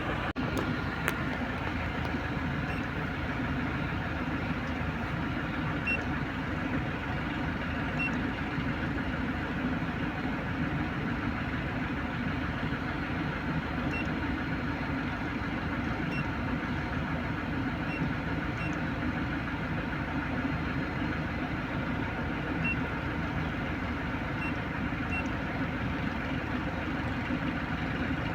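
Toyota Innova engine idling steadily, with faint short high beeps every few seconds.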